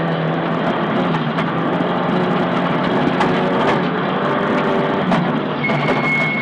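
Nissan Silvia S15 rally car's four-cylinder engine running hard under load as heard inside the cabin, its pitch shifting a little, with many sharp clicks and knocks over it. A steady high tone starts near the end.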